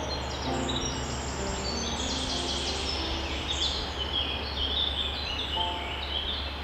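Songbirds chirping in quick runs of short, high notes that step down in pitch, several overlapping and busiest in the middle, over a steady low hum.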